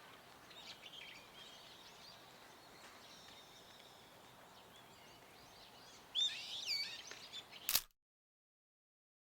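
Brown-eared bulbul calling: a few faint shrill calls early, then a loud cluster of sharp, swooping calls about six seconds in, over steady outdoor background noise. It ends in a click and the sound cuts to silence.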